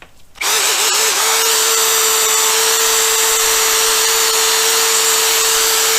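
Electric drill spinning an 800-grit sanding pad, wet sanding a plastic motorcycle windscreen. It starts about half a second in, wavers briefly as it comes up to speed, then runs at a steady, even whine.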